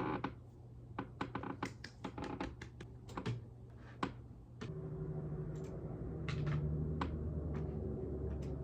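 Typing on a computer keyboard: irregular runs of keystrokes. About halfway through, the keystrokes thin out to a few scattered taps and a steady low hum comes in.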